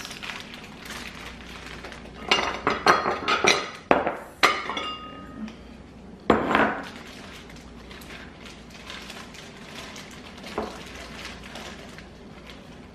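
Kitchenware clinking and knocking against a bowl, likely a measuring cup, in a quick cluster from about two seconds in, with a few clinks ringing briefly. One more clatter follows a couple of seconds later.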